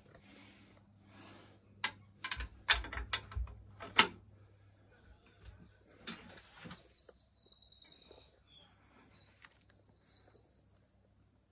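A string of sharp clicks and knocks from parts being handled on the motorcycle's headlight assembly, loudest about two to four seconds in. Then a small bird chirps rapidly for about five seconds, cut off suddenly near the end.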